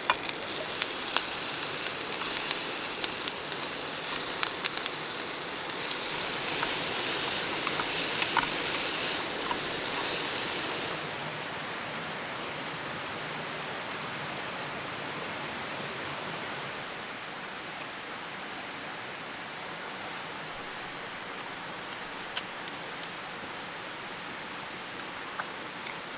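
Food sizzling and crackling in a pan, cut off suddenly about eleven seconds in, leaving a steady, even hiss.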